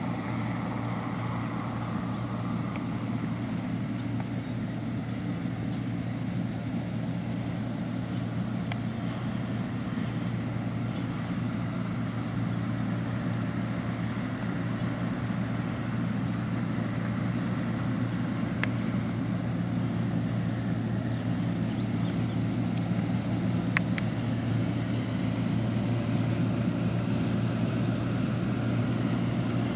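The 228-horsepower Deutz-Allis Gleaner R60 combine running steadily while harvesting wheat, a constant low engine-and-machinery drone that grows a little louder toward the end.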